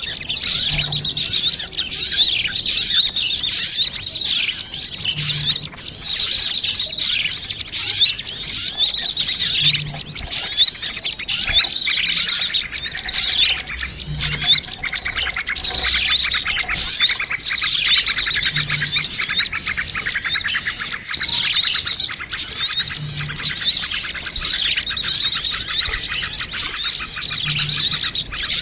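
A mixed chorus of many small birds chirping and twittering rapidly and without pause, as on a bird-lure (pikat) recording of small songbirds.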